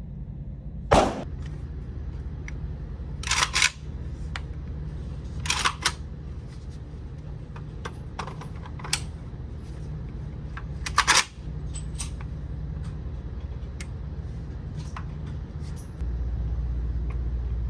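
Firearm being handled between shooters: a string of sharp metallic clicks and clacks, the loudest about a second in and about eleven seconds in, over a steady low hum.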